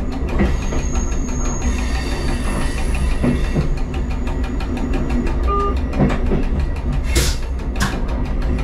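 Diesel train running along the track: a steady low rumble of engine and wheels, with two sharp clicks in quick succession about seven seconds in as the wheels cross a rail joint.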